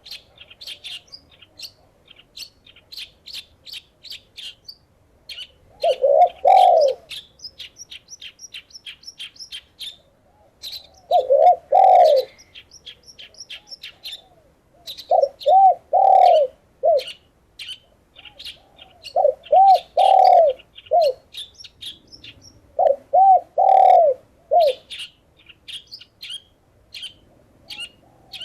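Doves cooing in short phrases of several arched notes, repeated every few seconds, over steady rapid chirping of small birds.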